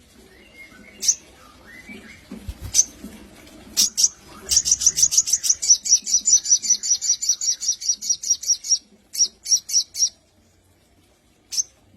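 A sogon (mountain tailorbird) singing: a few sharp high chips, then a long fast trill of high notes about eight a second lasting some four seconds, followed by a few more separate notes and a last chip near the end.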